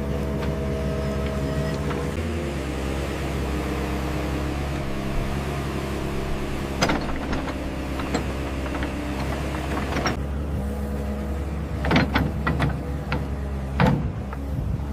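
Small electric motors and gearboxes of RC model construction machines whining steadily, with a few sharp knocks and clicks in the second half.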